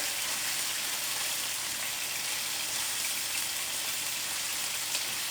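Chicken tenderloins frying in a lot of oil in an uncovered skillet: a steady sizzle with the hot oil spitting, and one small click near the end.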